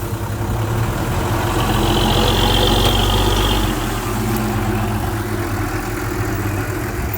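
Heavy-equipment diesel engine running steadily, swelling a little around the middle, with a high squeal lasting about two seconds partway through.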